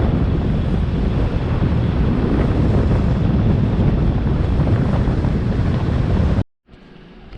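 Wind rushing over the microphone of a moving vehicle: a dense, heavy rumble with the strongest part low down. About six and a half seconds in it cuts off abruptly, leaving a much quieter background.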